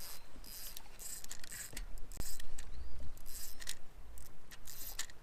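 Short, irregular hissing and clicking bursts, about a dozen, as a barely hooked bass is fought on rod and reel beside a kayak.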